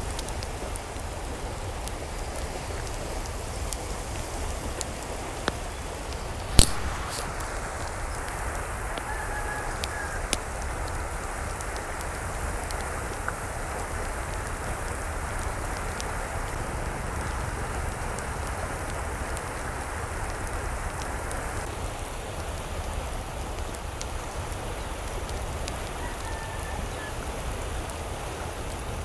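Steady hiss of falling or running water, with one sharp knock about six and a half seconds in. Two faint short calls sound over it, one about nine seconds in and one near the end.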